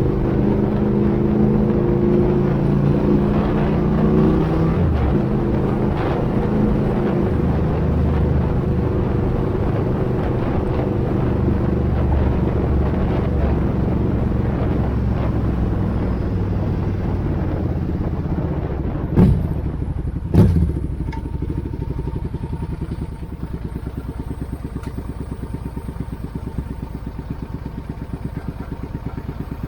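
Suzuki Intruder 800 V-twin engine running through the exhaust being tried out, with a steady pulsing note. Two sharp bangs come about a second apart around two-thirds of the way through, and afterwards the engine settles lower and quieter.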